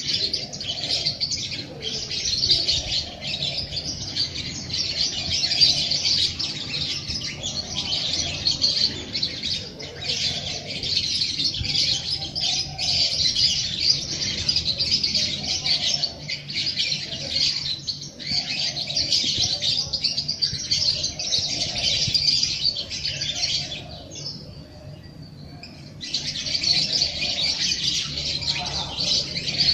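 A dense chorus of small songbirds chirping and twittering continuously. It drops away for a couple of seconds near the end, then starts again.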